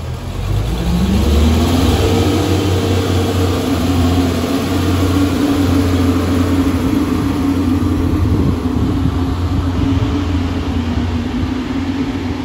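Diesel multiple unit, including Class 143 Pacer 143610, pulling away from the station. Its diesel engines rev up, rising in pitch over the first second or two, then run loud and steady under power.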